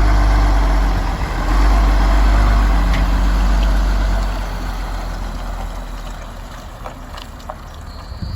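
Diesel engine of a BMY M930A2 military 5-ton dump truck, a Cummins 6CTA8.3 turbo straight-six, running with a loud deep rumble, then easing off about four seconds in and growing steadily quieter.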